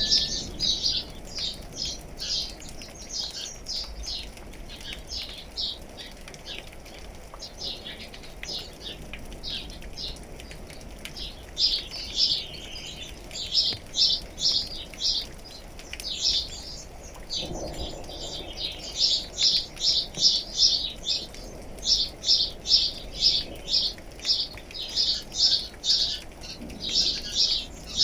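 Birds chirping in fast runs of short high notes, several a second, the runs coming and going and densest in the second half, over a faint steady background hiss.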